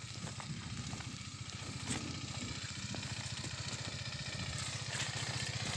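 Motorcycle engine running at low revs with a steady low beat, growing slowly louder.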